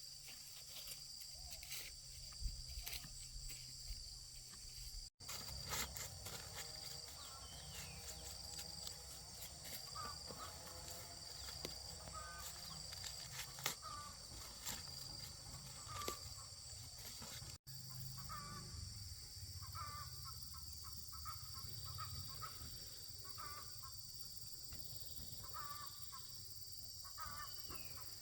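Faint rural outdoor ambience: a steady high drone of insects, with short bird calls repeating through most of it, likely from chickens. The sound drops out briefly twice, about five seconds in and again near the middle.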